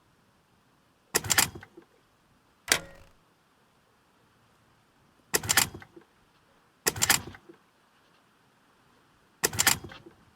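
Five short clattering knocks, each a quick cluster of sharp clicks, spaced one to three seconds apart.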